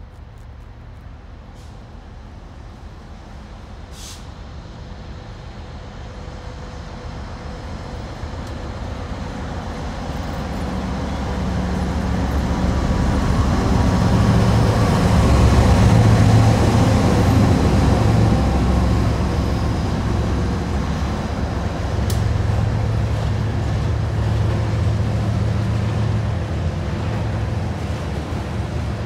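Freight train's diesel locomotives approaching slowly and passing close by, their engine rumble building to its loudest about halfway through. After that comes the steady rolling of covered hopper cars on the rails.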